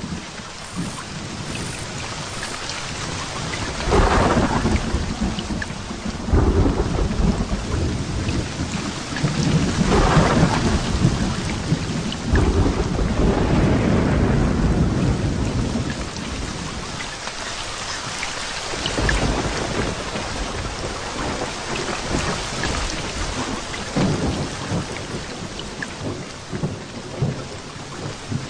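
Thunderstorm with heavy rain: a steady hiss of rain under rolling thunder that swells in several long rumbles, the loudest about 4 and 10 seconds in, easing off in the second half.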